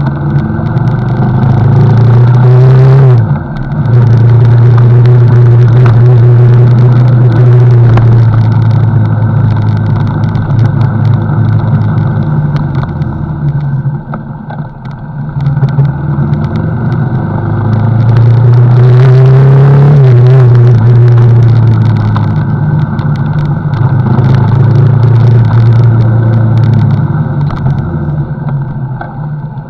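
CFMoto NK motorcycle engine running under way, loud and steady, with a brief drop about three seconds in and the revs easing off and climbing again over the middle of the stretch.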